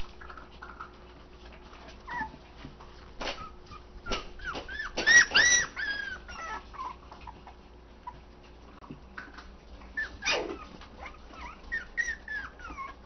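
Four-week-old toy Australian Shepherd puppies whining and whimpering in many short, high-pitched cries that rise and fall, loudest about five seconds in, with a few sharp knocks or scratches in between.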